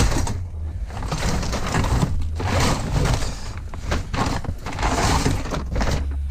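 Irregular clattering and scraping of hard objects being handled and shifted, in several noisy bursts.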